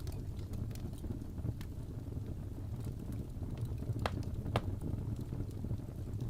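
Crackling fireplace: a steady low rumble of burning wood with scattered sharp pops, the two loudest a little past halfway, about half a second apart.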